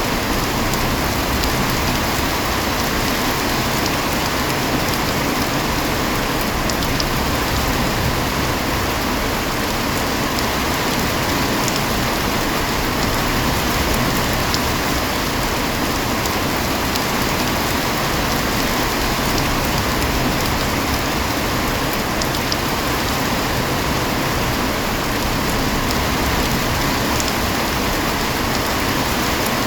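Heavy rain falling steadily, an even dense hiss with a few faint sharper drop ticks now and then.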